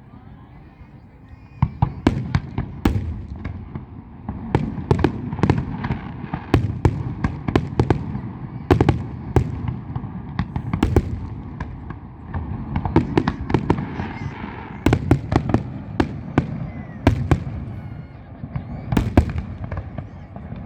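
Fireworks display: a dense, irregular run of sharp bangs and crackles over a continuous low rumble of bursts. It is quieter for the first second and a half, then busy throughout.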